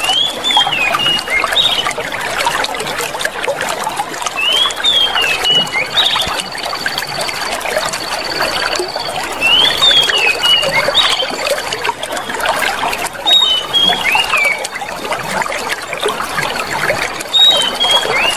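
Clear water running and trickling steadily, with a small bird's short whistled up-and-down phrases about every four seconds and a thin high trill coming and going.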